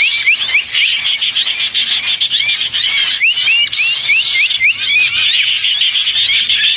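Dense chorus of many small songbirds chirping together, with quick rising and hooked chirps overlapping several times a second without a break. It is a bird-lure recording meant to draw in wild small birds such as bulbuls.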